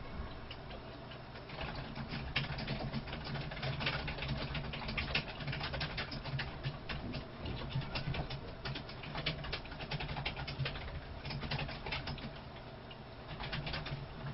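Close-up chewing of food: a dense, irregular run of small wet clicks and crunches, thinning out briefly near the end, over a low steady hum.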